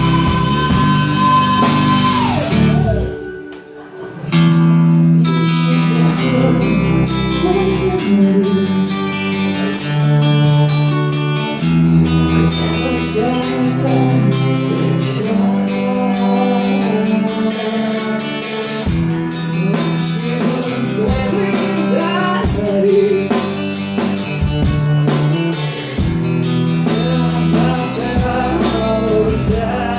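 Rock band with guitar, bass and drums playing an instrumental break. A held high note at the start bends down, the music nearly drops out for about a second, then the full band comes back in.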